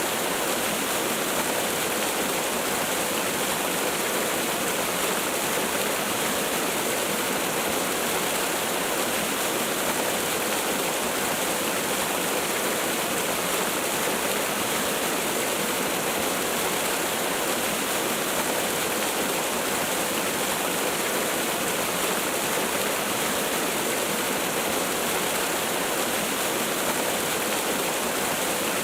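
Waterfall: a steady rush of falling water, an even hiss without breaks or single splashes.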